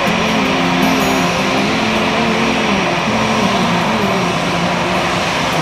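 Steady roar of an airliner cabin in flight, with indistinct wavering pitched sounds over it.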